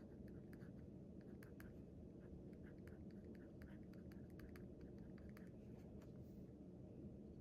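Faint scratching and ticking of writing on paper, in short irregular strokes, over a steady low room hum.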